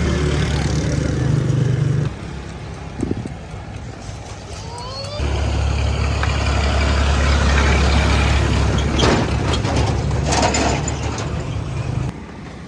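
Road traffic: motor vehicle engines running steadily, with a rising engine note about four seconds in and short hissing bursts near the end.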